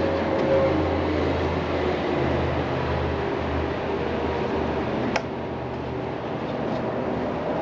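Steady mechanical hum, like a running fan, with a single sharp click about five seconds in.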